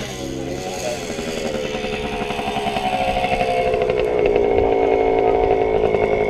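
Small-displacement pit bike engine revving up, its pitch climbing and growing louder over the first few seconds, then held at high revs.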